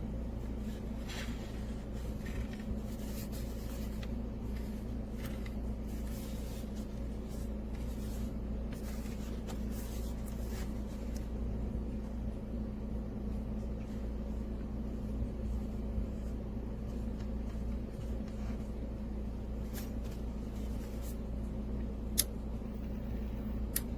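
A steady low mechanical hum, like a small motor or fan running, with light rubbing and clicking from handling and one sharp click near the end.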